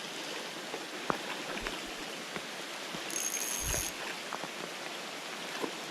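Steady rain and creek water hiss with a few small taps. About three seconds in comes a short high whine, under a second long, together with a low thud.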